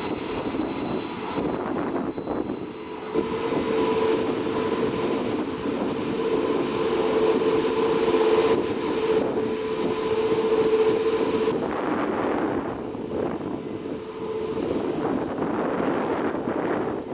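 Airbus A380 jet engines running, a steady whine over a broad rumble; the whine fades out about three-quarters of the way through, leaving the rumble.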